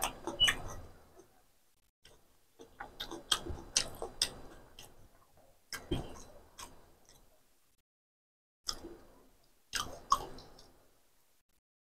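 Close-up sound of a person chewing egg masala: wet mouth smacks and clicks in short bursts, with silent gaps between them.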